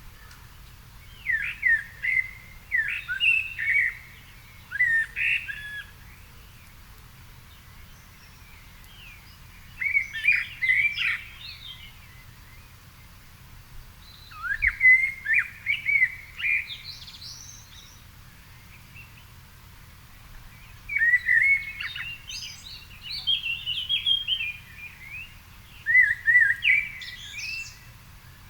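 A songbird singing short warbling phrases of two to four seconds each, separated by pauses of a few seconds.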